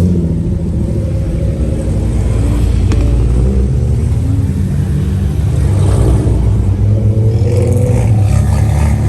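Car engine running with a deep, steady rumble, its pitch lifting slightly a few times with light throttle.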